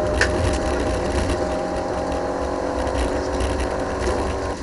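Rally car engine running steadily as the car drives at speed, heard from inside the cabin over a low rumble of road noise, with one sharp click near the start.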